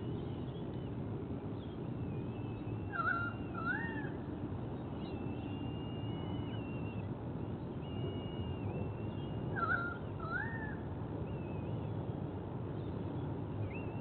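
Thin, high bird calls over a steady low outdoor rumble: long drawn whistles throughout, and a short two-note rising call twice, about seven seconds apart.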